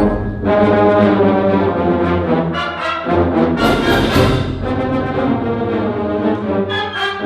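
Live school band playing a march, with the brass section to the fore.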